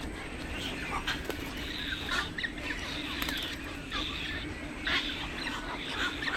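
Several birds calling over one another, with short squawks and chirps every second or so over a steady low background hum.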